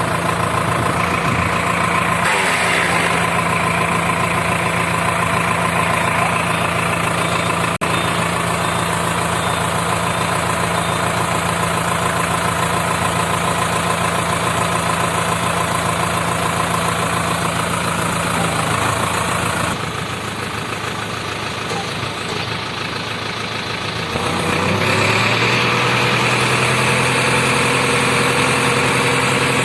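Sonalika 750 tractor's diesel engine running steadily. Its note changes about two-thirds of the way in: it drops and goes quieter for a few seconds, then comes back louder at a lower, steady pitch.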